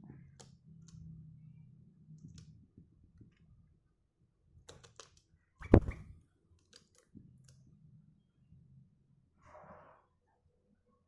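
Scattered small clicks and taps of a sooty-headed bulbul pecking at cigarette ash, with one loud thump about six seconds in.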